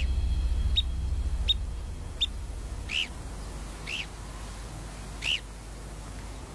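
A bird calling a series of short, high chirps, about one a second. The first few are brief, sharp notes; the later ones rise and fall.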